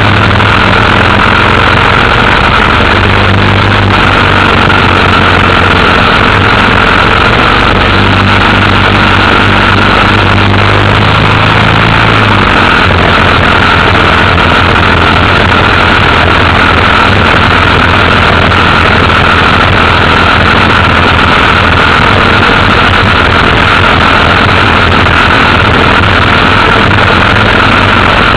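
Motorcycle engine running steadily under way, loud and constant over a dense rushing noise; the low engine note changes about twelve seconds in.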